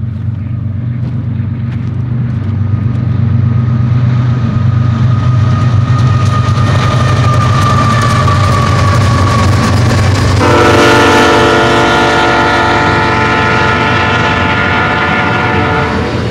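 BNSF GE diesel locomotives on an intermodal train approaching and passing, their engines rumbling steadily and growing louder over the first few seconds. About ten seconds in, the lead locomotive's multi-chime air horn sounds one long blast of about six seconds.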